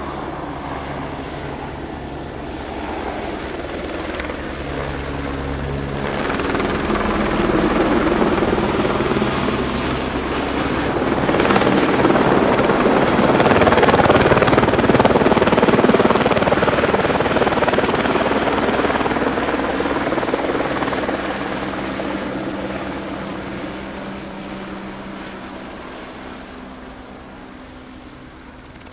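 An aircraft flying past: its engine noise builds to a peak about halfway through, then fades away.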